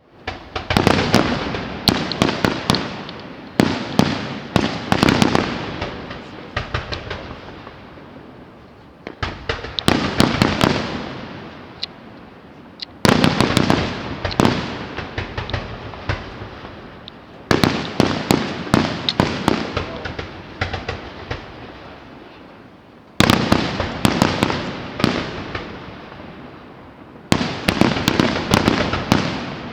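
Fireworks display: repeated volleys of shell bursts, each a cluster of sharp bangs and crackles that fades away over a few seconds, with a new volley every four to six seconds.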